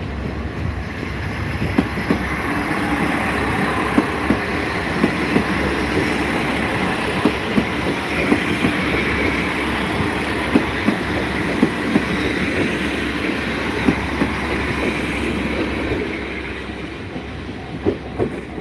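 A train passing over a level crossing: a steady rumble with wheels clacking over the rail joints in uneven pairs. The noise fades away near the end as the train clears.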